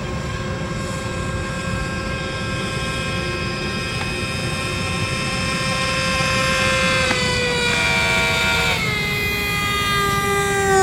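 Small electric airplane motor spinning a propeller on a homemade RC airboat, a steady high whine with a rushing wash underneath. About seven seconds in the pitch wavers, then it drops and slides steadily lower as the motor slows.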